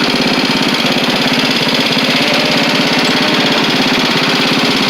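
Mid-1980s Simplicity riding mower's engine running steadily, with a rapid, even beat of firing pulses.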